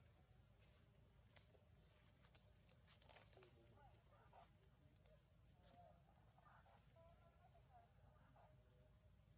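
Near silence: faint forest ambience, with a steady high insect buzz that swells in repeating rising sweeps and a few faint wavering animal calls and clicks in the middle.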